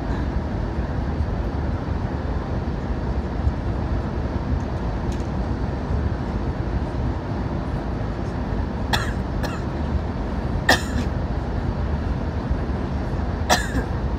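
CRH6A electric multiple unit running: a steady rumble and hiss of the train in motion, with a few brief sharp sounds in the second half.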